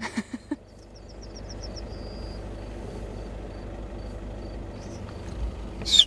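A faint bird calls: a quick run of high notes, then a single high pip repeated two or three times a second, over a steady low rumble. A few short knocks at the start and a sharp, loud high sound at the very end.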